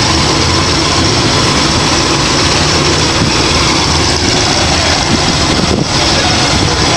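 Loud, steady rumble of car engines and exhausts as cars drive out past.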